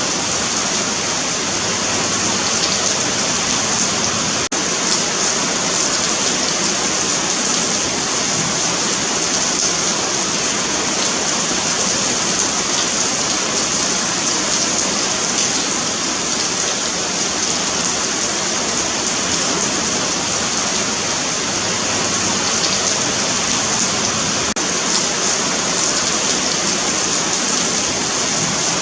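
Steady rain falling on a paved sidewalk: a continuous dense patter and hiss with no breaks.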